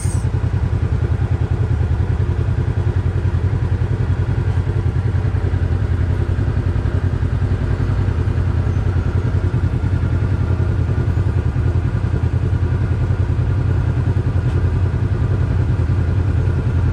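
Can-Am Maverick X3 side-by-side's turbocharged three-cylinder engine running steadily at low revs.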